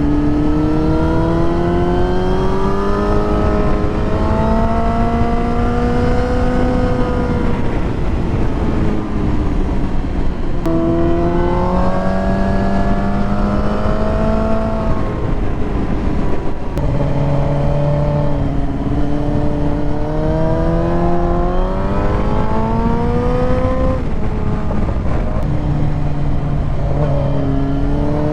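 Motorcycle engine under way, its pitch climbing as it accelerates and dropping back between climbs about four times as the rider shifts or eases off. A heavy wind rush runs underneath.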